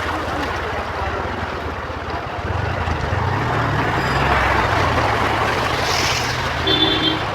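A motor vehicle running under a steady rushing noise, its low engine hum growing louder about two and a half seconds in. A short horn toot sounds near the end.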